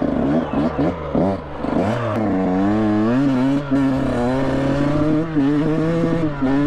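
Motocross dirt bike engine revved in quick blips, then pulling up through the revs and holding a fairly steady pitch as the bike rides off.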